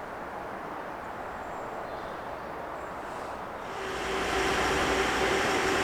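Quiet outdoor ambience, then about four seconds in a Class 230 train's running sound comes in, louder, with a steady hum and a high whine.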